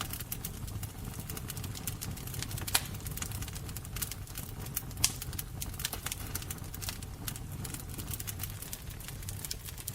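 Wood fire crackling and popping over a low steady rumble of flame, with two louder pops, about three seconds in and about five seconds in.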